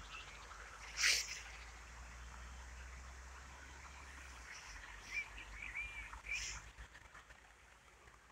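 Faint outdoor ambience with a few short bird chirps about five to six seconds in, over a low rumble. A brief rustling hiss about a second in is the loudest sound, with a smaller one later.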